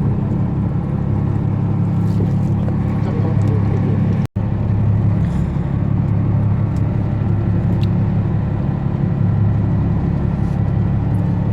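Boat engine running steadily with a low rumble. The sound drops out for a moment about four seconds in, then carries on as before.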